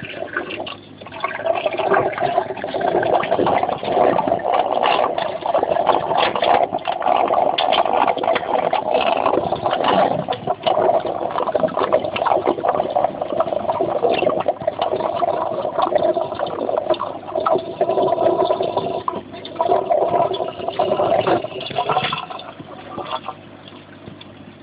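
Water draining down an aquarium overflow into the sump, rushing and gurgling noisily with many small irregular splashes, then turning much quieter about three-quarters of the way through as the fitted drilled-pipe silencer takes effect.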